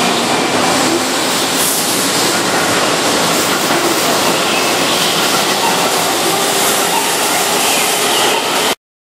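Keihan 6000-series electric train running along the platform close by: a loud, steady rumble of wheels and running gear with faint steady tones over it. It cuts off abruptly near the end.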